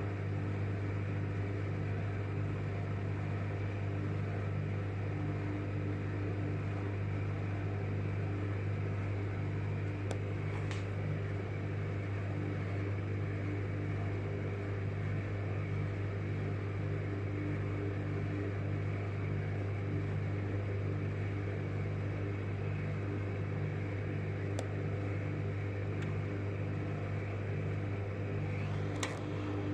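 Microwave oven running steadily with salt inside: a strong low hum with a faint pulsing note above it. A few faint ticks sound over it now and then.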